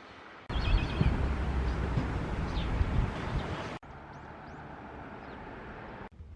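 Loud low rumbling outdoor noise that cuts in abruptly, with a few short high bird chirps over it; after a second cut the noise drops to a quieter hiss with two faint rising chirps.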